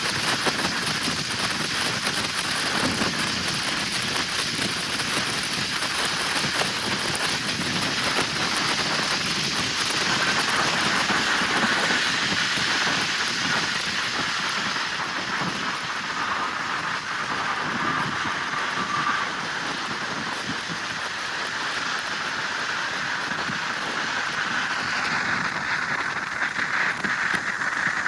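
Steady hiss of rain, with vehicle noise running underneath.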